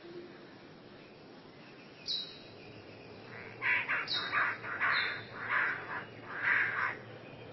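A bird calling: a few short, high whistles, then a run of about six loud, harsh calls in the second half.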